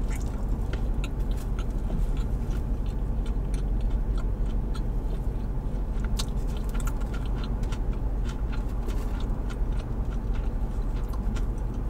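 Close-miked biting and chewing of a plant-based cheeseburger: many small wet mouth clicks and smacks scattered throughout, over a steady low hum.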